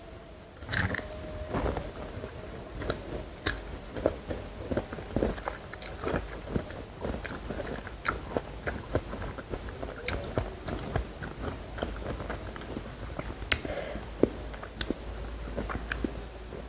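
Close-miked eating: a person biting and chewing crunchy food, with many irregular sharp crunches.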